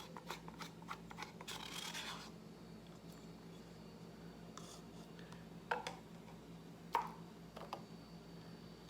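Paint cups and bottles being handled: a scratchy rubbing for about the first two seconds, then a few light knocks, over a faint steady low hum.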